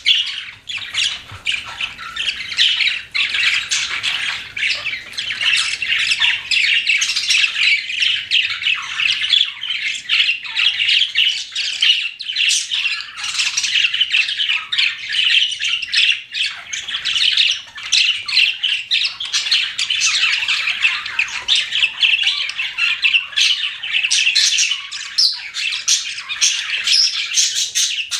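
Several pet budgerigars chirping together in a continuous, busy chatter of short, high calls with no pauses.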